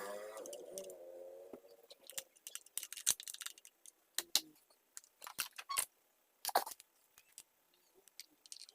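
Irregular clicks, taps and light clatter of small hard parts being handled while a mini chainsaw is cleaned, after a pitched sound trails off in the first two seconds.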